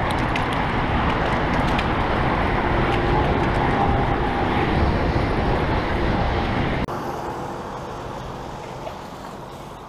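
Steady rush of road and traffic noise with wind on the microphone during a bicycle ride. It drops suddenly to a quieter level about seven seconds in.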